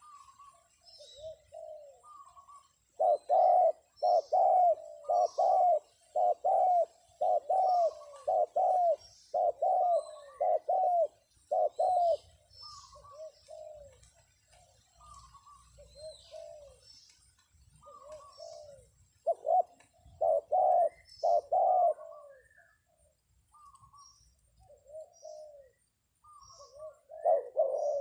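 Spotted doves cooing: loud runs of coos from about three seconds in to twelve seconds and again around twenty seconds, with quieter coos between. This is a lure call for trapping wild doves. Faint chirps of small birds sound above it.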